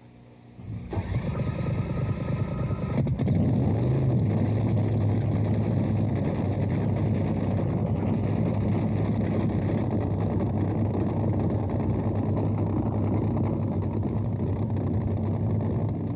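Drag boat engine running at a steady, even pitch. It starts about a second in with a short higher whine over it, then settles into a loud, constant drone from about three seconds in.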